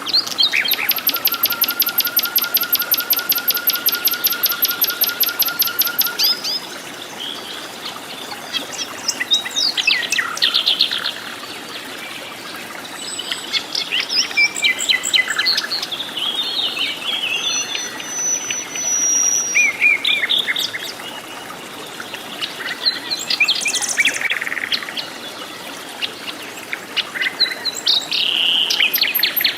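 Wild forest birds calling and singing: a fast, even trill of about eight pulses a second for the first six seconds, then a varied mix of short chirps and whistles.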